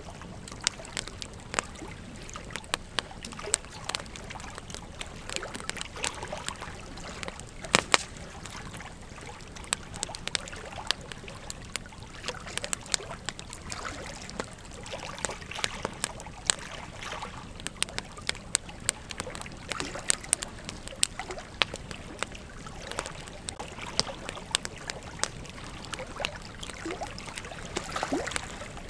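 Campfire crackling: irregular snaps and pops of burning wood over a steady hiss, with one sharp, louder pop about eight seconds in.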